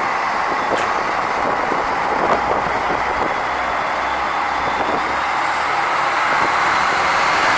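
Train running steadily along the tracks, a continuous rumble with a faint high whine, growing louder near the end as it comes closer.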